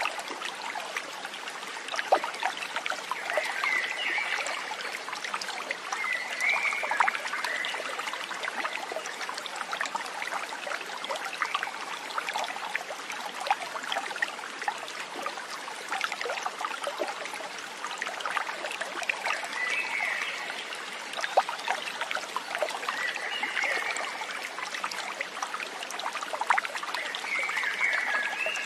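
Stream water trickling and splashing steadily, with an animal's short warbling call about five times, a few seconds apart.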